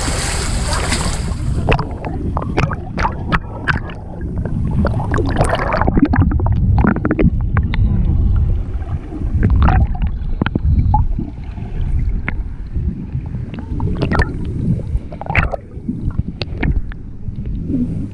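Water splashing and sloshing close by, with many short irregular splashes over a constant low rumble.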